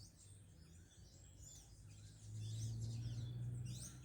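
Birds chirping, many short high calls throughout. A low steady hum comes in about halfway through and is the loudest sound.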